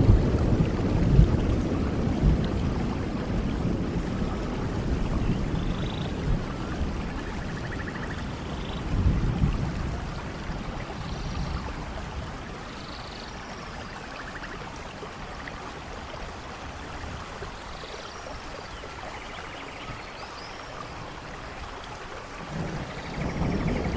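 Rainforest thunderstorm: steady rain with rolling thunder that dies away over the first several seconds, a brief low rumble about 9 s in, and thunder building again near the end. Short high chirps of animal calls sound now and then over the rain.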